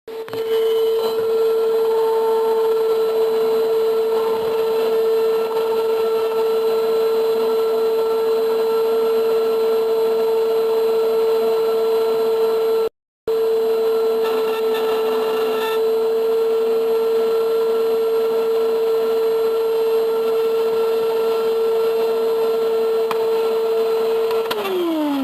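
Vacuum cleaner motor running at a steady high whine. Near the end it is switched off and the pitch falls as the motor winds down.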